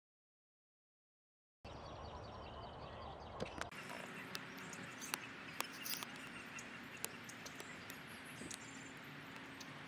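Dead silence for about the first second and a half, then faint outdoor ambience with scattered small bird chirps and a run of short sharp clicks and taps.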